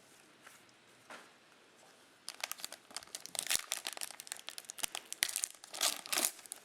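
A trading card pack's foil wrapper being torn open and crinkled by hand. It starts about two seconds in with a rapid, uneven run of crackles.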